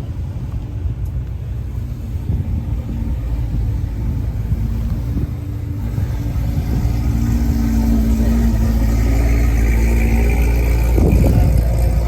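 A car engine running close by with a low, steady rumble that grows gradually louder over several seconds and dips briefly near the end.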